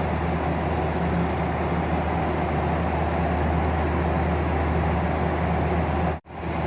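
Steady in-flight cabin noise of a Boeing 737: a constant rumble of engines and airflow with a low hum. It cuts out abruptly for a moment near the end.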